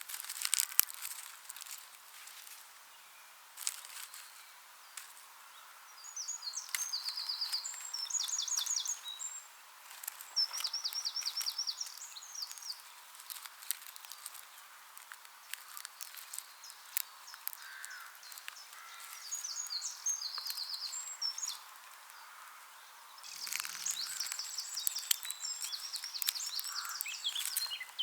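Songbirds singing in repeated high, trilling phrases, with scattered sharp crackles and snaps of dry straw being worked by hand.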